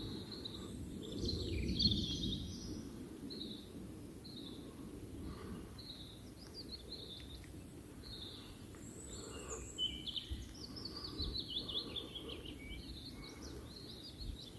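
Small birds singing, with many short high chirps and, about ten seconds in, a quick trill of notes that falls in pitch, over a low steady rumble.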